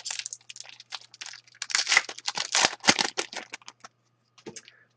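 Hockey card pack wrapper being torn open and crinkled, a quick run of rustling crackles that stops about four seconds in.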